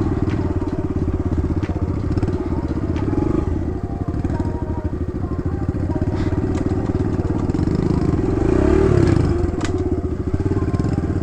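Kawasaki KLX110 dirt bike's small single-cylinder four-stroke engine running as the bike rides a trail, revving up briefly about eight to nine seconds in.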